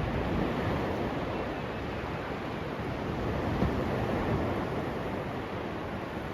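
Surf washing onto a sandy beach in a steady rush, with wind buffeting the microphone.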